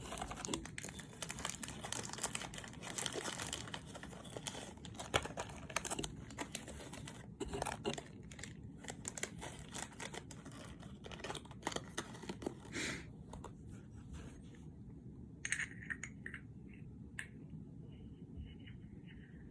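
Plastic packaging crinkling and rustling as it is handled, with scattered clicks and taps; it dies down about two-thirds of the way through, leaving only a few short rustles.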